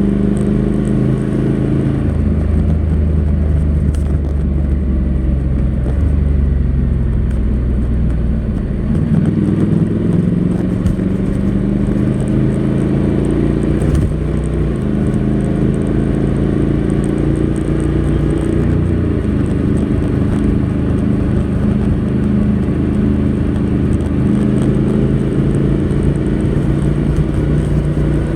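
Honda NC700X's parallel-twin engine running through its stock exhaust under way. Its pitch dips about nine seconds in, then climbs again and holds.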